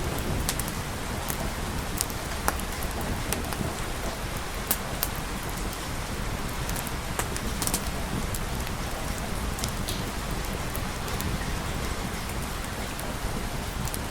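Steady rain, an even hiss with scattered sharp clicks of drops hitting a surface, over a steady low rumble.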